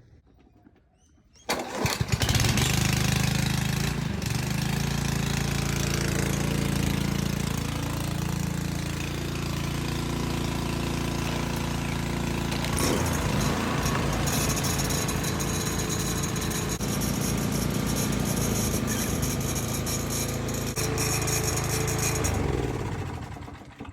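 Walk-behind petrol lawn mower engine starting about a second and a half in and then running steadily, warming its oil before an oil change. The sound cuts off abruptly near the end.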